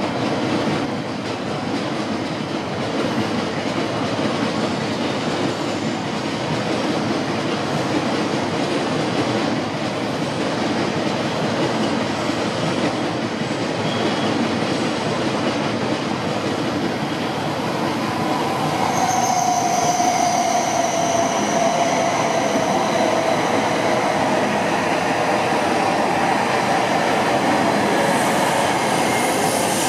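An E5-series Shinkansen coupled to an E6-series set approaches and runs close past, with a steady rumble of wheels and air. About two-thirds of the way through, the sound grows louder and a high whine comes in, falling slightly in pitch as the cars go by.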